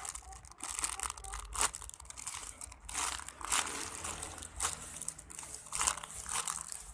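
Plastic packaging crinkling and crackling irregularly as a radish-shaped squishy foam toy is handled and squeezed.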